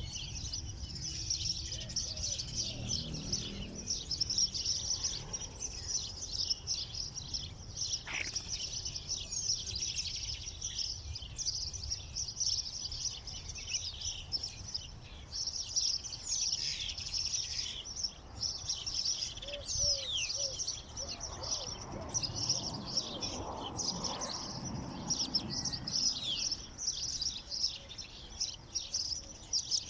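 Many small birds chirping and twittering continuously, a dense chorus of short high calls and quick falling notes.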